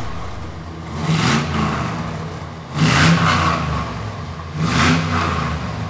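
Chevrolet LS fuel-injected V8 in a 1955 Chevrolet Bel Air idling through its Flowmaster dual exhaust and revved three times, each blip of the throttle rising and dropping back to idle.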